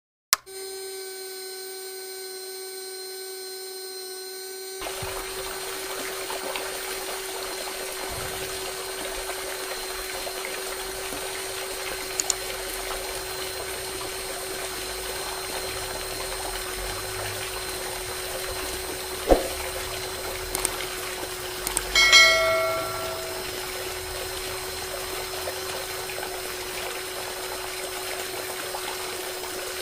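Small DC motor of a homemade toy water pump running with a steady whine. About five seconds in, water starts flowing and splashing. A few light clicks and one short ringing clink come later, about two-thirds of the way through.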